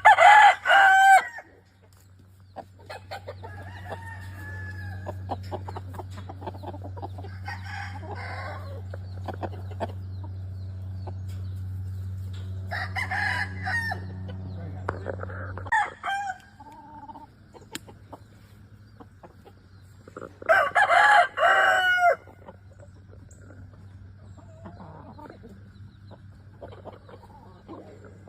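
Gamefowl roosters crowing: three loud crows, one right at the start, one about 13 seconds in and one about 21 seconds in, with fainter calls from other birds in between. A steady low hum runs under the first half and stops about 16 seconds in.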